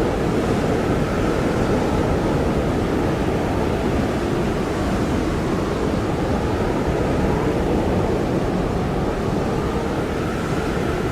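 Blizzard wind blowing hard and steadily, a dense rushing noise with a faint howling tone that swells and fades.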